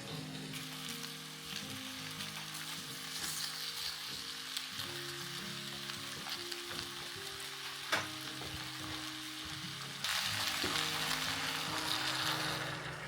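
Food sizzling in a hot pan, with stirring sounds. The sizzle gets louder about ten seconds in, and there is a single click shortly before that.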